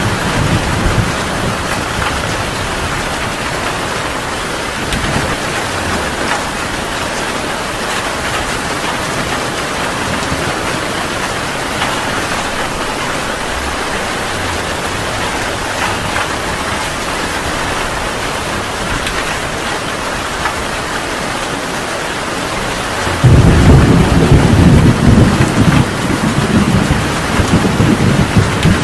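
Heavy rain falling steadily, with a loud roll of thunder breaking in suddenly near the end and rumbling for several seconds.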